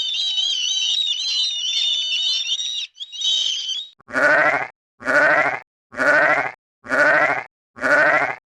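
A high, wavering, warbling animal call for about three seconds, repeated briefly. Then five bleats at even intervals, each about half a second long and quavering, from a sheep or goat.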